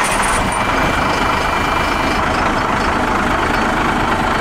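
Cummins diesel engine of a 1998 Freightliner truck idling, loud and steady.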